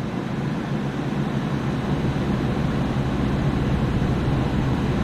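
Steady low hum and rumble of running rooftop machinery.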